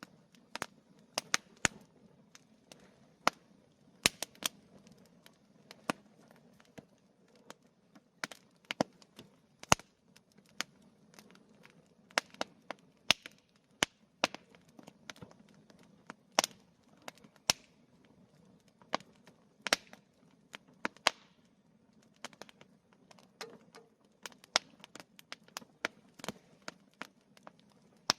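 Wood bonfire crackling and popping: irregular sharp snaps, several a second at times, a few of them loud, over a low steady background of burning.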